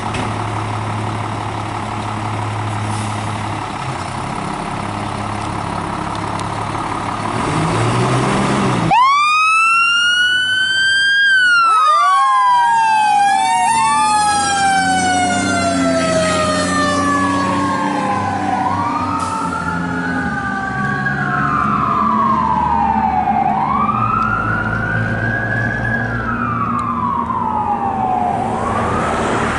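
A vehicle engine runs, then about nine seconds in a fire engine's Federal Signal Model 28 mechanical siren winds up sharply and wails, its pitch rising and slowly falling again several times over the engine.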